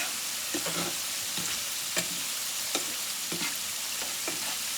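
Food frying in hot fat in a pan: a steady sizzle, with a few light knocks or clicks scattered through it.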